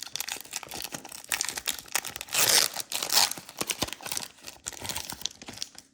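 Foil booster-pack wrapper crinkling and tearing as a pack of Pokémon cards is ripped open. The loudest crackle comes a little past two seconds in.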